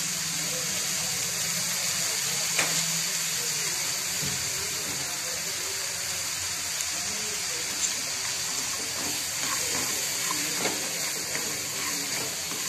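Peanut, pea and potato mix sizzling steadily in an oiled kadhai while a spatula stirs it, with a few sharp taps and scrapes of the spatula against the pan.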